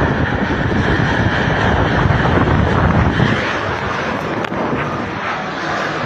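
Strong gusty wind buffeting the microphone: a loud, continuous rushing noise, with a few faint clicks in the second half.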